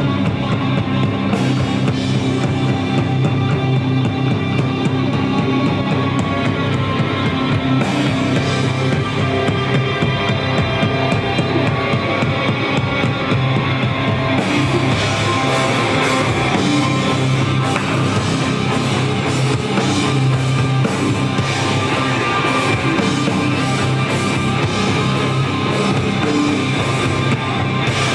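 Live rock band playing loud, distorted electric guitars over bass and a drum kit, with the cymbals growing busier about halfway through.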